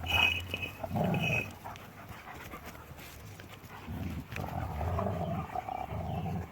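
German Shepherds play-fighting with a young puppy, growling and panting, with two short high-pitched cries in the first second and a half and a longer stretch of low growling from about four seconds in.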